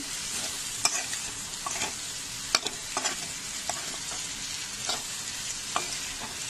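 Potato cubes and cluster beans sizzling in hot oil and tomato masala in a kadhai as a spatula stirs them, with light scrapes and taps of the spatula against the pan every second or so.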